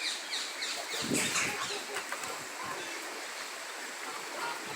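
Park birds calling, a quick run of sharp, repeated calls in the first second and a half, then quieter chatter.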